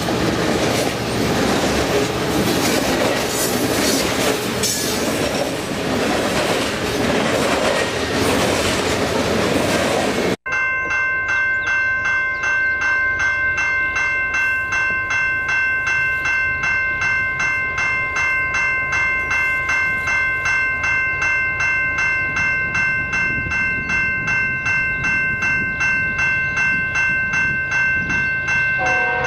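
Canadian Pacific freight train of grain hopper cars rolling past close by: a loud, dense rush of wheels on rail. It cuts off abruptly about ten seconds in, giving way to a railway crossing bell ringing about twice a second with a clear, bright tone, signalling an approaching train.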